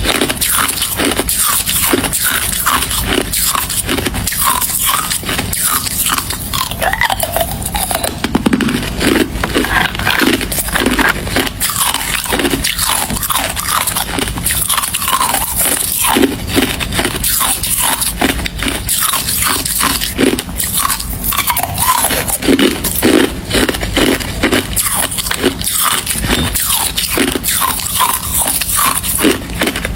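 Close-miked biting and chewing of hard ice: a steady run of crunches, several a second, with no pause.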